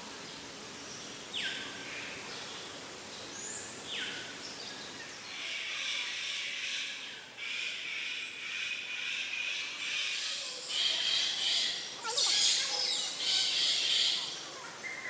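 Birds calling and chirping: two short falling whistles in the first few seconds, then a dense, continuous high chirping that grows louder in the last few seconds.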